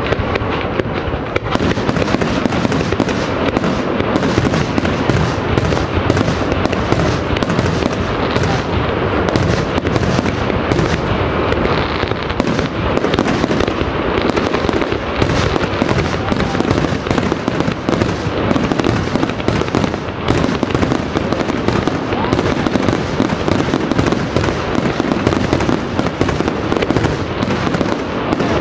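Aerial firework shells launching and bursting in a rapid, continuous barrage, the bangs so close together that they overlap with no pause.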